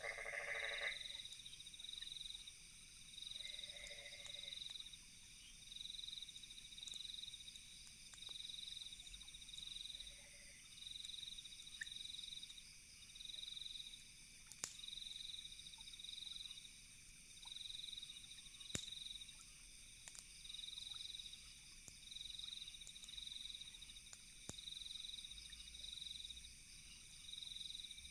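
Night insects: a cricket chirping in regular bursts about once a second over a steady high insect hum. A frog calls a few times in the first ten seconds, and a campfire gives an occasional single crackle.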